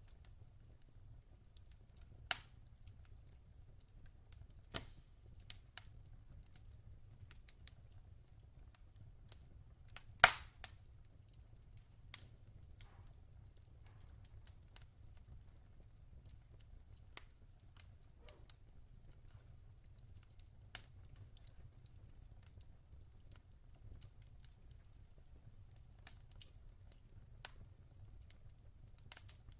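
Log fire crackling: irregular sharp pops and snaps over a faint low rumble, the loudest pop about ten seconds in.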